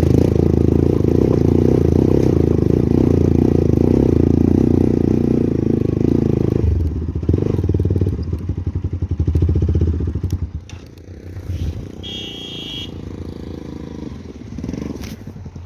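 Motorcycle engine running while riding a rough gravel road, loud for the first six seconds, then fluctuating and dropping quieter about ten seconds in.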